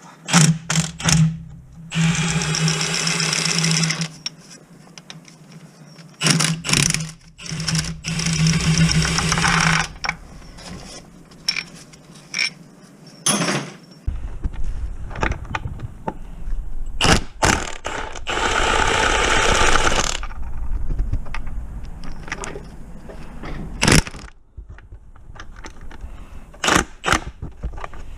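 A cordless power tool running in three bursts of two to five seconds each, with sharp clicks and knocks of tools and metal parts between them, during clutch and gearbox removal.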